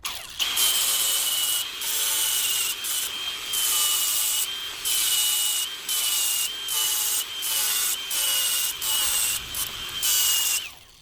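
Power grinder shaving the mounting nubs off a wide-body wheel-arch extension, a steady high whine with rasping, in a run of short passes with brief pauses between them. It cuts off near the end.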